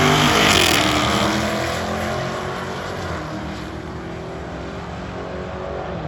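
A drag-racing car's engine at full throttle, accelerating away down the strip. It rises slowly in pitch and fades over the first three seconds or so into a lower, steady engine sound.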